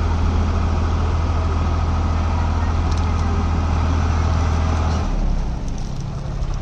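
Diesel engine running steadily under load with a deep, even hum, then easing off about five seconds in.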